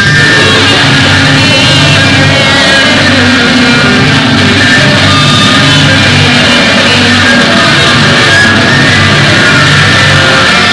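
Loud, dense rock music with distorted guitars, steady throughout.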